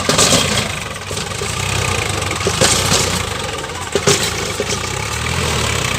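Engine running steadily at idle, with three short hissing bursts over it.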